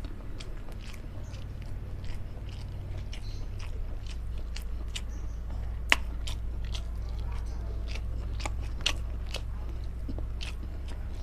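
A person chewing and biting food close to the microphone, with many small sharp mouth clicks and smacks, one louder click about six seconds in. A steady low hum runs underneath.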